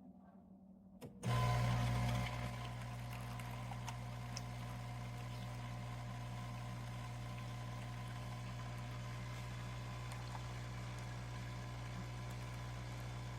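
Café Affetto automatic espresso machine starting with a click about a second in, then running with a steady low mechanical hum that is louder for its first second before settling.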